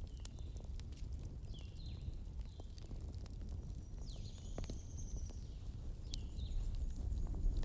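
Campfire crackling, with a few sharp pops over a steady low rumble. Small birds chirp in short falling notes, with one longer high whistle near the middle.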